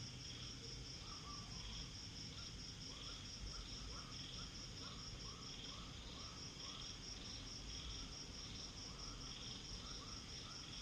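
Night chorus of crickets and other insects: a high, rapidly pulsing trill that drops out briefly a little past halfway, over a slower pulsing call. Runs of short lower chirps come and go, over a low background rumble.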